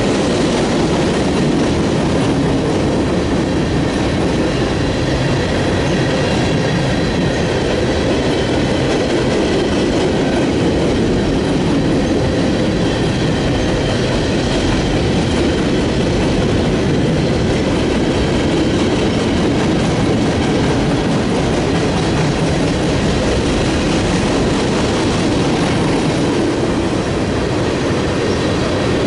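Railroad cars rolling steadily past on the rails: a constant loud rumble of wheels on track, with a faint high ringing from the wheels over it.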